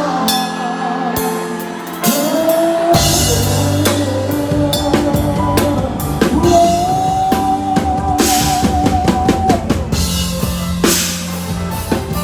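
Live band music: a drum kit beats steadily with kick and snare, a bass line comes in about three seconds in, and a lead melody plays long, wavering held notes over it.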